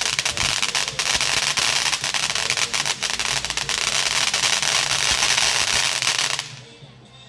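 Fireworks going off in a dense, rapid crackle of many small pops that cuts off abruptly about six and a half seconds in.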